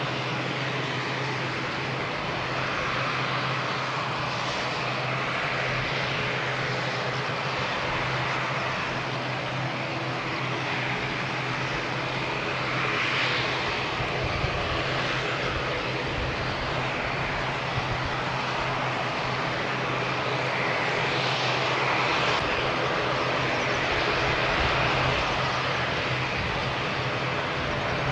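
Pratt & Whitney PW127M turboprop engines of an ATR42-600 running on the ground after start-up: a steady hum with a constant low tone under a broad rushing noise that swells slightly a few times.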